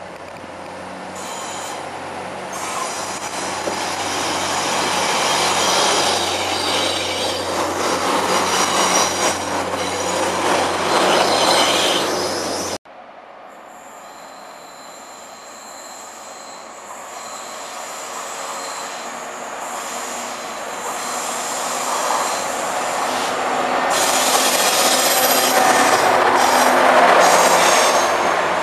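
A CAF-built diesel multiple unit approaching along the track, its steady low engine hum and wheel-on-rail noise growing louder until it cuts off abruptly about halfway through. Then a Class 201 diesel locomotive hauling carriages draws near and passes, its engine and wheel noise building to a peak near the end.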